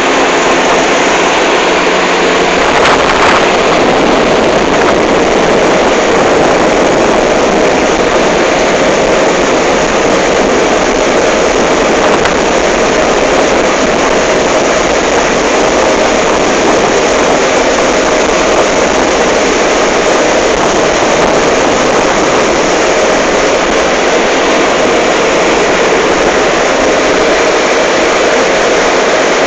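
Motorboat engine running steadily under way, an unbroken drone with a faint steady tone over a constant rushing noise.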